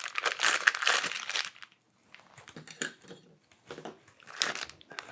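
Packaging crinkling and rustling as accessories are unpacked from a box. A dense stretch of crinkling in the first second and a half gives way to scattered rustles and light knocks, with another short burst of crinkling near the end.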